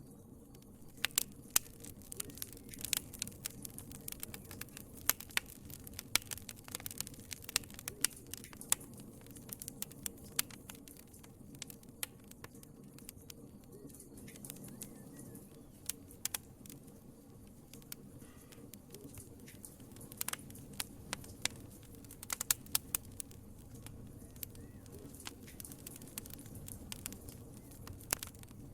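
Wood fire crackling: irregular sharp pops and snaps over a low, steady hiss. The pops come thickly in the first few seconds and again about two-thirds of the way through, and are sparse in between.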